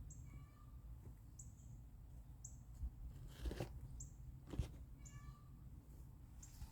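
Birds calling in the background: a short, high chirp repeated about once a second, and twice a brief buzzy call. A few soft knocks in the middle.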